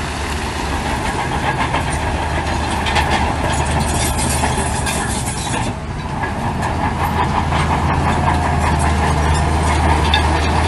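Heavy diesel earthmoving machine running steadily under load, with a continuous metallic clatter over the low engine hum; the sound drops briefly about six seconds in, then picks up again.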